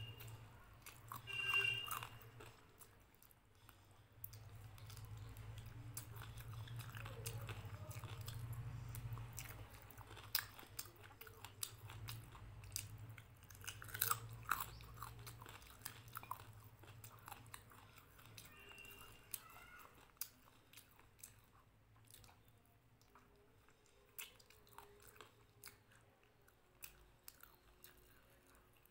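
Close-up chewing and biting of food eaten by hand, with wet mouth clicks and a few sharp crunches, over a low rumble for several seconds in the first half.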